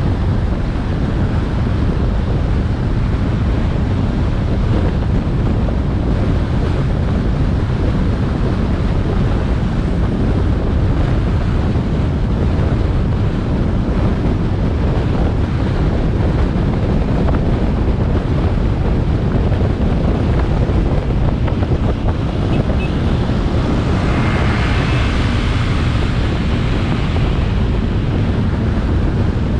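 Steady rush of wind buffeting an action camera's microphone on a moving motorcycle, with road and engine noise beneath it. A brighter hissing sound swells briefly about 24 seconds in.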